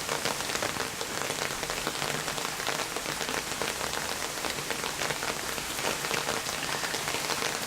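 Steady rain falling, with a dense patter of close drop impacts.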